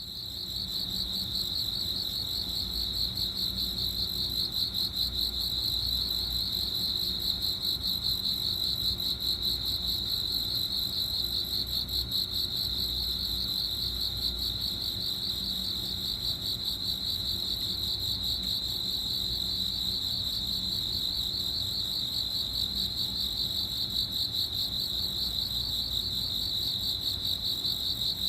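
Cricket chirping: a steady high trill of rapid pulses, fading in over the first second or two.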